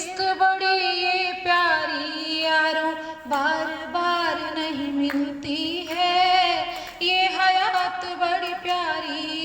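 A woman singing a Hindi poem verse, drawing out long notes with vibrato and short breaths between phrases.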